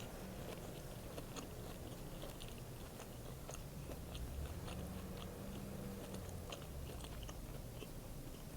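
Close-up chewing of an egg sandwich: a steady run of small, scattered wet clicks and soft crunches from the mouth.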